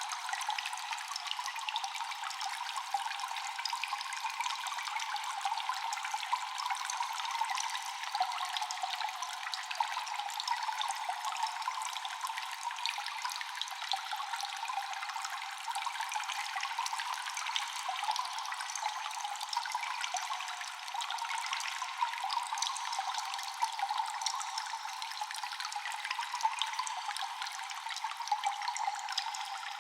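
Many water drops dripping and trickling continuously in a cave, a dense patter of small echoing drips with a steady watery wash behind them.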